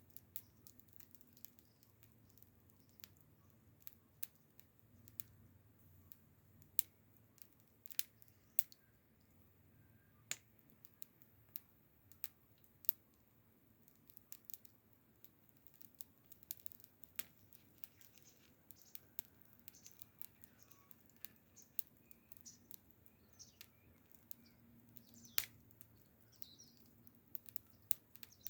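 Wood fire crackling: irregular sharp pops and snaps at uneven intervals, a few louder than the rest.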